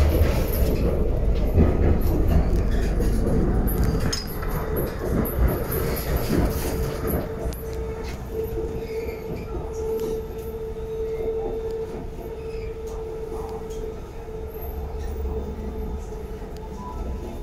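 Bangkok BTS Skytrain carriage running along the elevated track, heard from inside: a steady rumble of wheels and running gear that eases off about four seconds in. A steady humming tone swells through the middle and fades toward the end.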